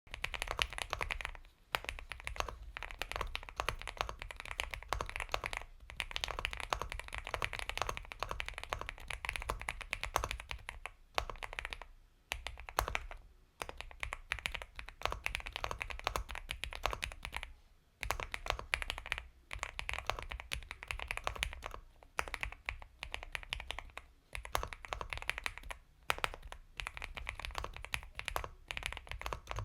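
Steady fast typing on an Epomaker x Feker Galaxy 80 mechanical keyboard with Gateron Milky Yellow Pro linear switches: soft, creamy keystrokes in runs, broken by short pauses every few seconds.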